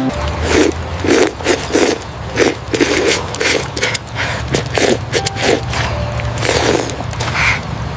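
Repeated scraping strokes, about two to three a second and uneven, over faint background music.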